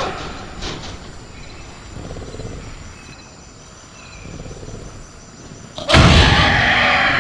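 Invented velociraptor sound effect over a soft jungle bed of crickets: about six seconds in, a sudden loud growling call breaks in and carries on past the end.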